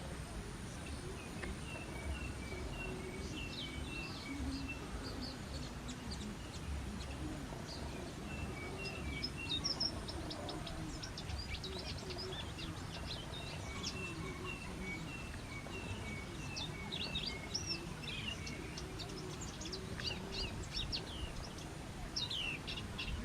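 Small songbirds calling: runs of short, evenly spaced high chirps mixed with many quick, sharp down-slurred notes, over a steady low rumble.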